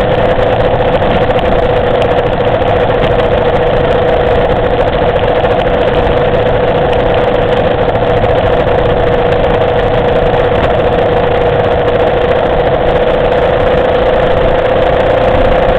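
Motorcycle engine running at steady revs, one even pitch held throughout, under a dense steady rush of noise.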